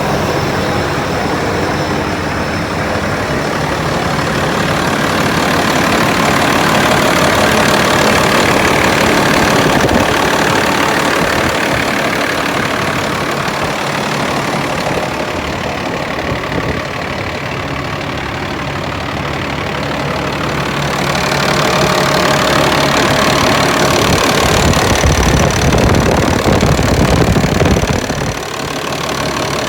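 Diesel engine of a 2013 Peterbilt 337 feed truck running, getting louder and softer by turns and dropping off suddenly near the end.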